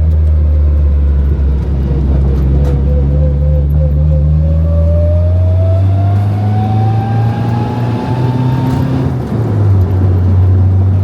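Nissan 240SX with an SR20DET turbo four-cylinder running on the road, with a thin whine that sags, then climbs steadily in pitch as the car speeds up and fades out about nine seconds in. About nine seconds in, the engine note also dips briefly. The whine is the transmission noise that the owner suspects comes from low transmission fluid.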